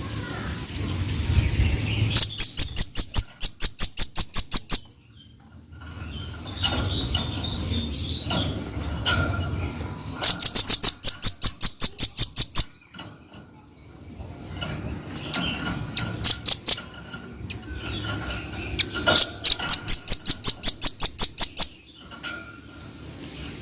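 Velvet-fronted nuthatch (red-billed rambatan) singing: three rapid trills of sharp, evenly repeated high notes, about five a second for some two and a half seconds each, with softer chips between them.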